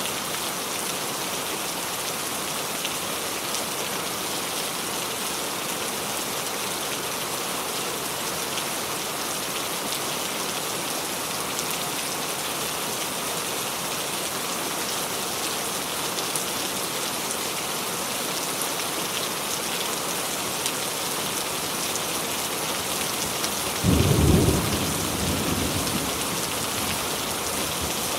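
Steady rain sound effect, an even hiss of falling rain. Near the end a sudden crack of thunder breaks in, the loudest moment, and rumbles away over a few seconds.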